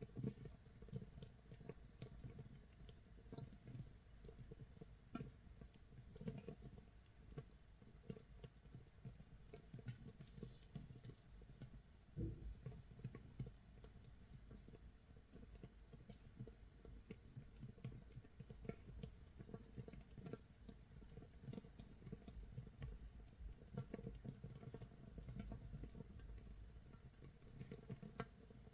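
Makgeolli base brew fermenting in a jar, 24 hours in: a faint, continuous, irregular crackle of tiny pops as carbon dioxide bubbles burst at the surface, like light rain or crackling firewood.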